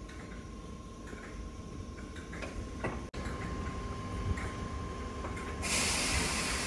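A Merseyrail Class 507 electric train standing at the platform, with a steady low hum and a thin high whine; about two-thirds of the way through, a loud rush of air hiss starts and keeps going.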